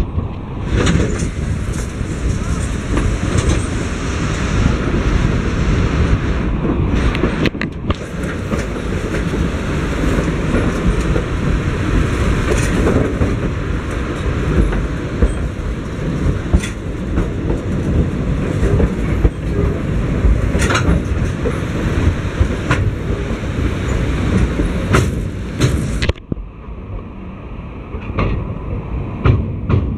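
Durango & Silverton narrow gauge passenger train rolling along the track, heard from aboard: a steady rumble and rattle of the cars with scattered sharp clacks from the wheels. About 26 seconds in it turns noticeably quieter.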